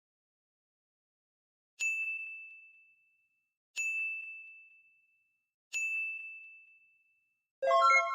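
A bell-like ding sounds three times, about two seconds apart, each a single clear tone ringing out and fading. Near the end a brighter chime of several notes follows.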